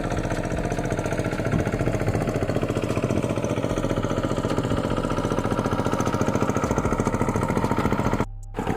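Tractor's diesel engine running steadily with an even chugging beat while ploughing a muddy paddy field. The sound cuts out briefly near the end, then the engine resumes.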